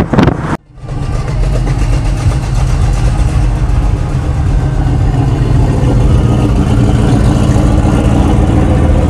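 Car engine running with a steady low rumble, heard from inside a car. At the very start a brief stretch of wind buffeting cuts off abruptly about half a second in.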